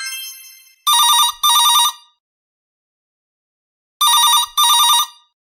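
Telephone ringing in a double-ring pattern: two short warbling rings, a pause of about two seconds, then two more. A single chime fades out just before the first ring.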